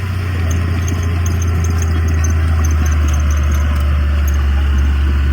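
Heavy diesel earthmoving machine running steadily, a deep low engine drone under a rough mechanical clatter.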